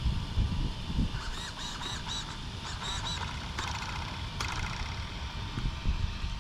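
Wind buffeting the microphone, with a string of short bird calls about a second in, then a brief mechanical buzz near the middle.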